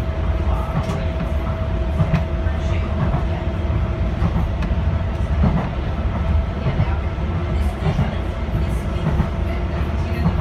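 Docklands Light Railway electric train running along the track, heard from inside: a steady low rumble of wheels on rail with irregular clicks from the rail joints, and a faint steady whine that fades out about halfway through.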